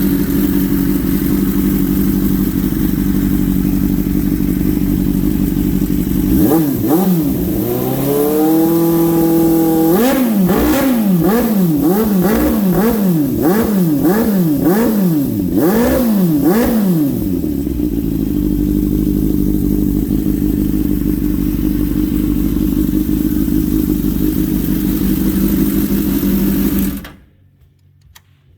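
1992 Suzuki GSX-R750's inline-four engine idling, then revved: one held rev, followed by about eight quick throttle blips at roughly one a second. It settles back to a steady idle and cuts off suddenly near the end.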